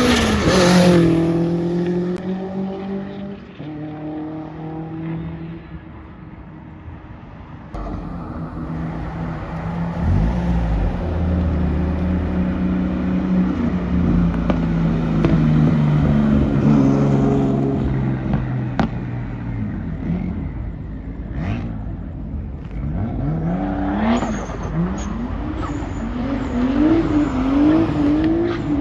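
Car engines at a car meet: one engine's note falls away early on, a steady engine note holds for a while, and near the end an engine is revved again and again, its pitch rising and dropping about once a second.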